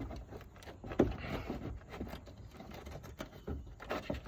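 Scattered clinks and knocks of hand tools and metal parts, such as a socket and ratchet on the fuel tank's mounting bolts and brackets, with one sharper knock about a second in.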